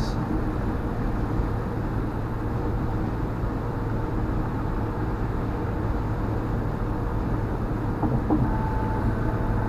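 Steady road and engine rumble of a car driving on the highway, heard from inside the car.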